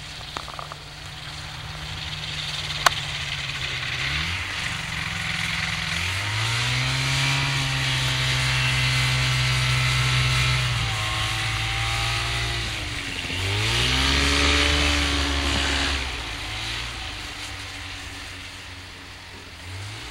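Kitfox light airplane's engine and propeller run up and down with the throttle while the plane taxis on snow. The pitch rises about four seconds in and again about six seconds in, dips and climbs once more near the middle, and then eases back to a lower idle near the end.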